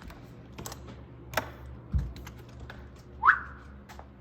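Scattered light clicks and knocks and a low thump, then a short, loud squeak that rises quickly in pitch about three seconds in.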